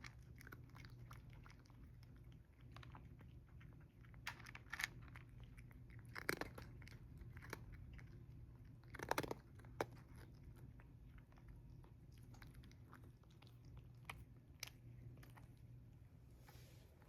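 Cats chewing and crunching their food: a run of small, irregular crunches with a few louder bites about four, six and nine seconds in.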